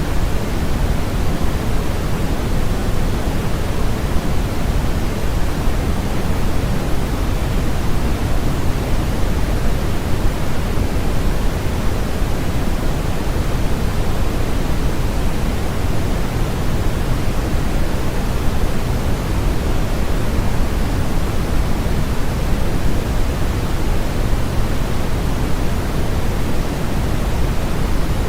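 Steady white-noise sleep sound: an even, unbroken hiss with no pitch or rhythm, heavier in the low end than the high.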